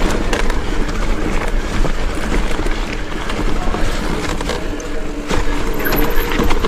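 Mountain bike riding down a rough, rooty trail: a constant rumble and hiss of tyres and wind with many small knocks and rattles from the bike going over bumps.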